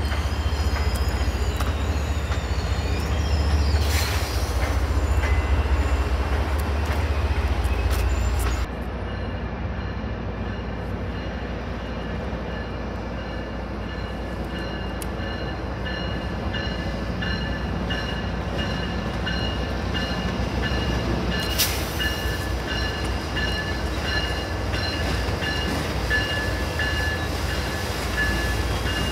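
Passenger train rolling slowly through station trackwork, with a low rumble and steady high-pitched wheel squeal. The sound changes abruptly about nine seconds in, and a single sharp click comes about 22 seconds in.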